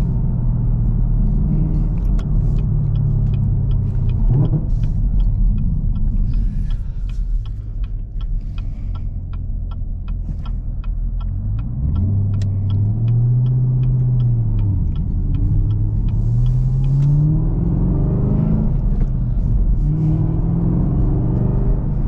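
Chevrolet Camaro ZL1's supercharged 6.2-litre V8 heard from inside the car while driving with a six-speed manual: the engine runs steadily, its pitch swells up and back down about halfway through, then climbs again under acceleration. A run of quick, even ticks is heard in the middle.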